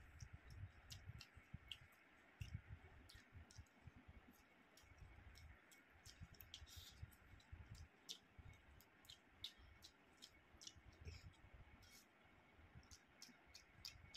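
Faint eating sounds from a man eating curry and rice with his hand: irregular wet mouth clicks and smacks of chewing, with soft low thuds of handling food on the plate.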